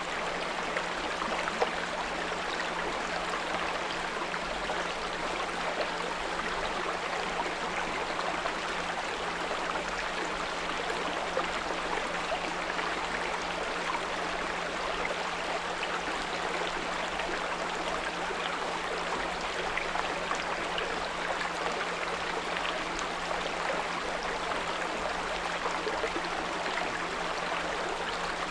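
A small brook flowing steadily, with a steady low 174 Hz pure tone sounding under the water.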